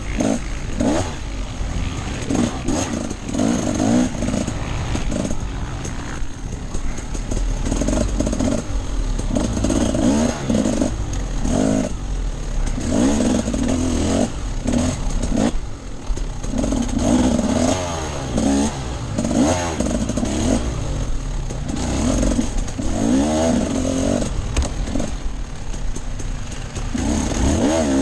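Off-road enduro motorcycle engine being ridden hard, its pitch rising and falling every second or two as the throttle is opened and closed, over a steady low rumble.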